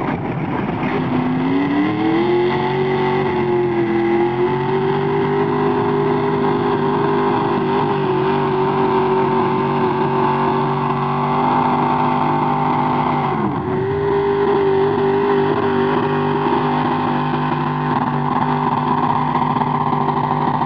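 Antique tractor engine revving up over the first couple of seconds, then running hard at high, steady speed. Its revs dip briefly about two-thirds through and then pick back up.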